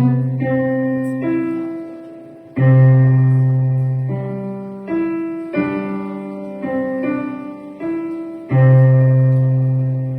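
Piano or digital piano playing a slow, simple piece: a low bass note and chord are struck about every three seconds and left to fade, with a single-note melody moving above.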